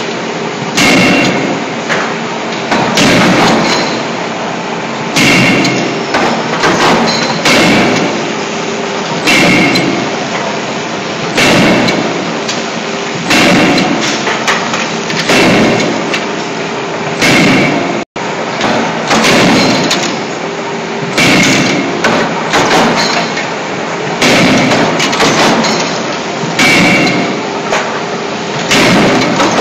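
CNC hydraulic closed-die forging hammer striking scissor blanks in the die: a hard metallic blow every second or two, over a steady machine hum.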